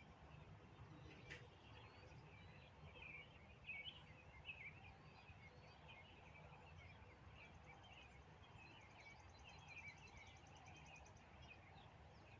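Faint twittering of barn swallows: many short chirps going on without a break, with a rapid high trill for a few seconds after the middle, over a low steady hum.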